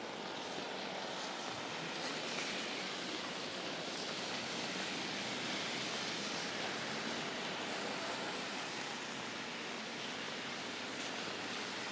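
Steady rain falling on an umbrella held overhead, an even hiss mixed with the wash of a wet city street.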